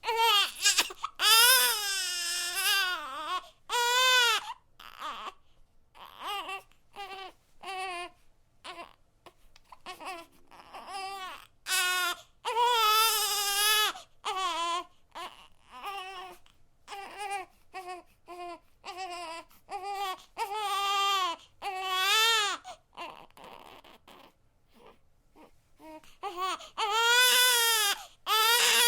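Infant crying: high wails that bend up and down in pitch, some long and drawn out, others short and choppy, with a brief quieter breathy lull before the wailing starts again.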